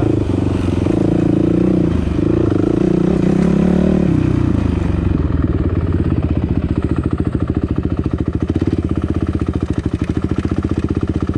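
Dirt bike engine running under throttle, its pitch rising for a couple of seconds, then dropping about four seconds in to a low, even putter where the separate firing pulses can be heard.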